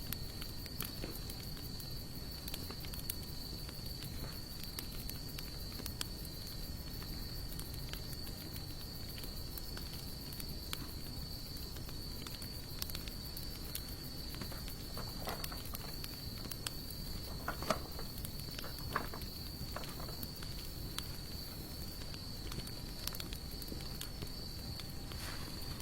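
Wood fire of sawtooth oak and mixed hardwood burning, with scattered small crackles and a few louder pops about two-thirds of the way through. A steady high insect trill sounds behind it throughout.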